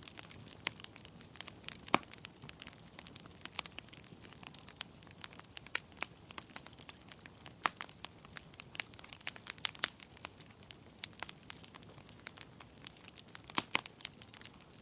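Wood fire in a fireplace crackling, with irregular sharp pops and snaps over a soft steady hiss; the loudest pops come about two seconds in and a couple near the end.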